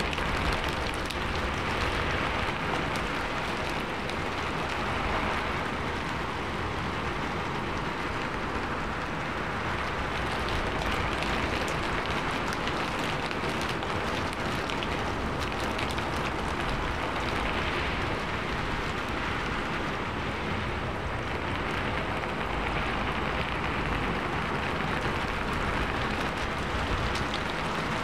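Steady rain falling: an even, dense hiss that swells and eases gently.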